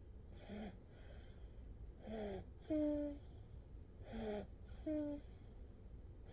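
A sleeping nine-month-old baby breathing noisily, three breaths about two seconds apart. Each breath has a short squeaky, falling whistle, followed by a brief steady pitched note.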